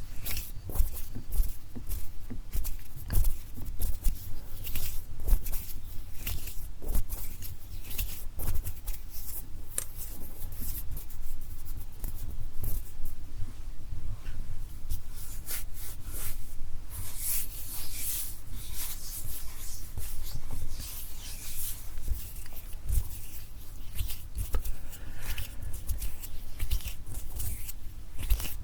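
Close-miked hand sounds: fingers and palms tapping, clicking and rubbing in a dense, irregular stream of soft crackles and thumps, with a run of louder swishing a little past the middle.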